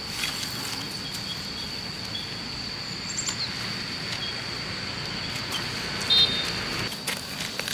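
Rural outdoor ambience: a steady high-pitched whine, a few faint short chirps, and one brief louder chirp about six seconds in.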